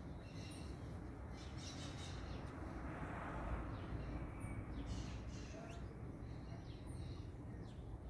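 Small birds chirping, with short high calls and quick falling notes scattered through, over a steady low background rumble.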